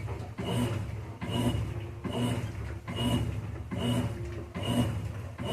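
Consul CWH15 washing machine agitating on its wash cycle: a rhythmic motor whir with a short high whine, repeating a little more than once a second.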